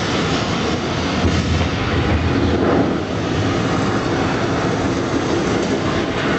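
Studio tour tram running, a steady rumble of the vehicle and its wheels on the track with no breaks.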